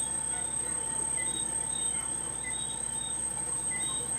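Crickets and other night insects: a steady high trill, with short chirps repeating about once a second.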